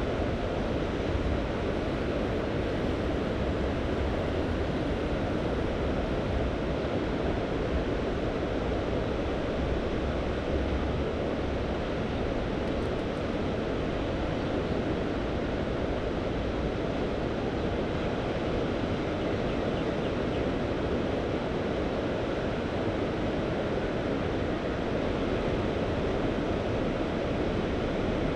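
Mediterranean Sea waves washing steadily on the shore, with a low rumble of wind on the microphone.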